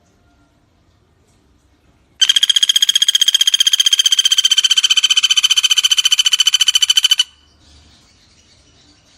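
Sunda pygmy woodpecker (pelatuk bawang) giving one long, rapid, high-pitched trill of about five seconds, steady in pitch, starting and stopping abruptly. Faint bird chirps are heard before and after.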